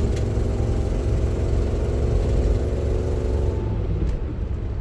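1998 Land Rover Discovery 1 engine accelerating, heard from inside the cab, its pitch rising steadily until it eases off about three and a half seconds in. The owner takes the noise for an exhaust leak at the gasket between the exhaust manifold and the downpipe.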